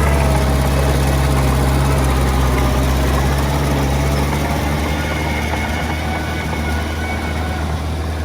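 Heavy-equipment diesel engine running steadily with a deep, even hum, easing a little after about four seconds.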